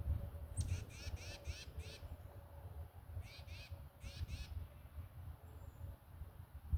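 A bird calling: harsh, repeated notes at about four a second, in three short runs of five, two and two.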